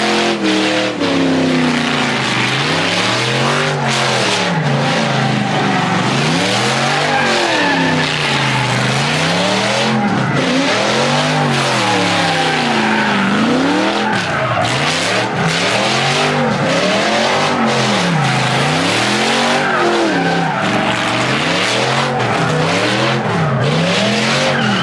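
A truck doing a burnout: its engine revs up and down over and over, about every two seconds, while the tyres squeal throughout.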